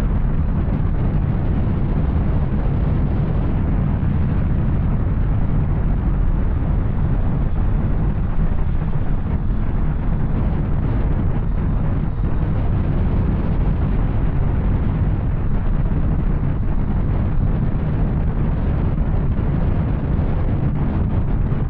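Yamaha Tracer 900's three-cylinder engine running steadily through an Arrow aftermarket exhaust while riding, a continuous low exhaust rumble at an even pace.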